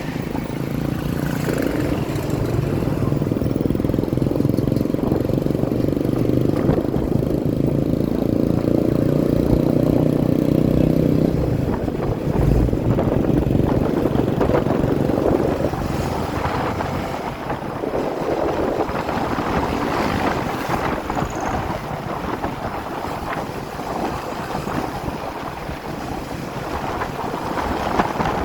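Motorcycle engine running under way with wind buffeting the microphone. The engine note holds steady for the first ten seconds or so, then drops away about twelve seconds in, leaving mostly wind and road rumble.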